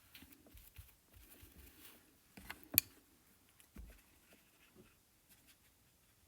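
Faint brushing and dabbing of a paintbrush laying acrylic paint onto a painting, with one sharp click a little under three seconds in.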